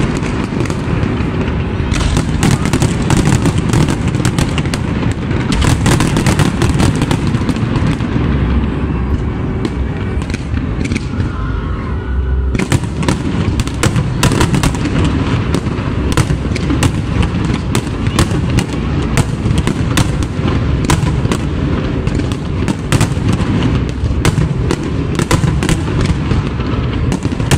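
Aerial fireworks display: a dense, unbroken barrage of bursting shells and crackling, with a constant low rumble beneath the bangs.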